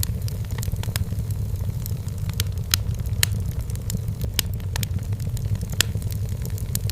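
Wood fire burning in a fireplace: a steady low rumble of the flames with frequent sharp crackles and pops from the firewood, a few louder snaps in the middle.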